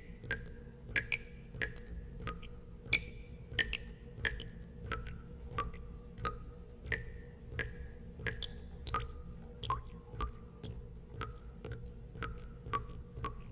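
Water drops falling into water at an irregular pace, about two a second, each a short plink with a brief ringing tone whose pitch varies from drop to drop, over a low steady hum.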